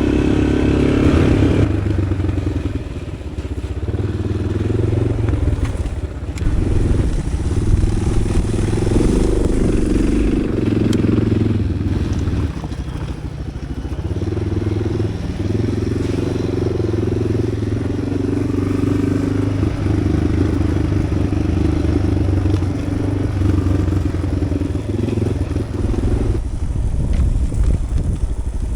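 Dual-sport motorcycle engine working along a rough trail at low speed, its note rising and falling as the throttle opens and closes.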